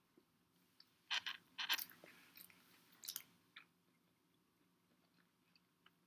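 Close-up eating sounds: chewing with a few sharp, crisp crunches, a pair about a second in and two more around three seconds in.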